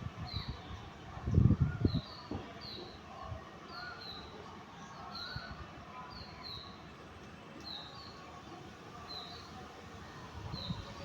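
A small bird repeating a short, high two-note chirp about once a second, each note falling in pitch. A brief loud low rumble comes about a second and a half in.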